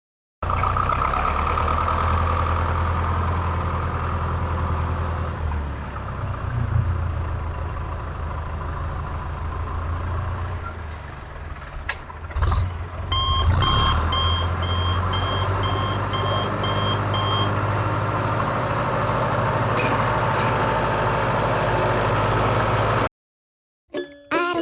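Truck engine running with a steady low hum, and a run of eight reversing beeps, about two a second, halfway through. The engine sound cuts off shortly before the end.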